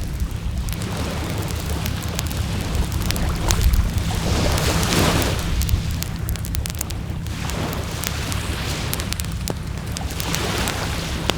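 Wood bonfire crackling with scattered sharp pops, over a steady low rumble of wind. Two swelling surges of hiss, about four and ten seconds in, as waves wash onto the shore.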